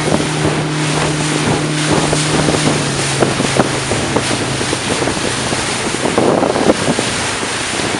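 Motorboat engine running underway, with wind buffeting the microphone and rushing water noise. The steady engine hum drops a little in pitch about three seconds in.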